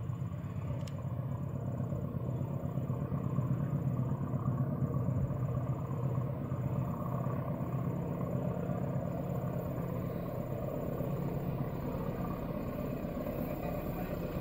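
Low, steady rumble of a distant diesel train, not yet in sight, swelling a little about four seconds in and then easing.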